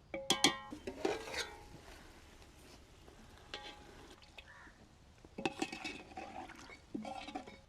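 Metal pots and utensils knocking and clattering in four short bursts, each strike ringing briefly.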